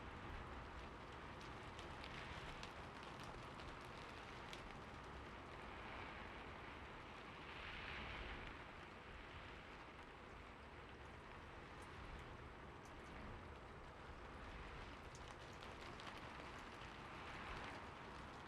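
Quiet, steady rain falling: an even hiss with scattered sharp drop ticks, swelling slightly about eight seconds in and again near the end.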